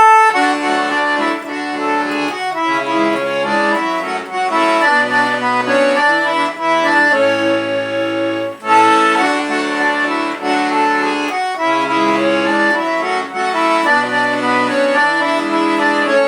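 Piano accordion playing a tune in A major: a right-hand melody over left-hand bass notes and chords that change every second or two.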